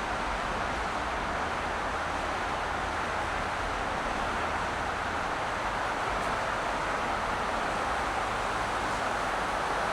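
Car driving at a steady pace: continuous road and tyre noise with a low rumble underneath.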